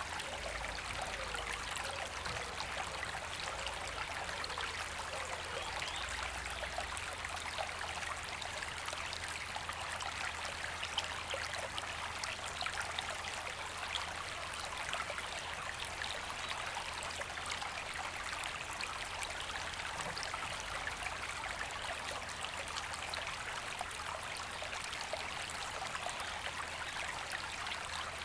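A river flowing with a steady, even rush of water.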